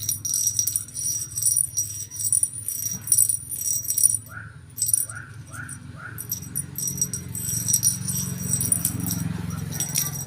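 A small metal bell jingling in quick, irregular shakes.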